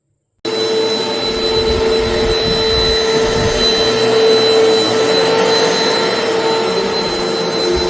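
Vacuum cleaner motor running steadily, a dense rushing noise with a steady hum and a high whine, starting abruptly about half a second in.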